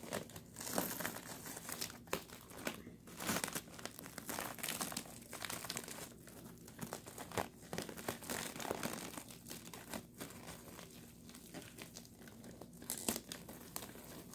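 Plastic packing wrap being handled and crinkled, with sharp irregular crackles and some tearing as it is pulled at.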